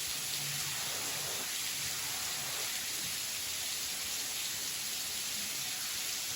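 Steady rushing splash of a waterfall, an even hiss of falling water that does not change.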